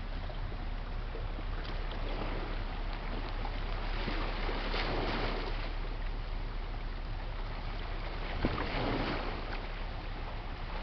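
A large lake freighter under way on the river: a steady low rumble under a rushing, water-like hiss that swells about four to five seconds in and again near nine seconds.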